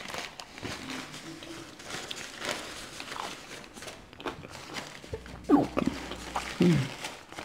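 Eating sounds at the mouth: small scattered clicks and smacks of chewing food, with two short sounds falling in pitch near the end.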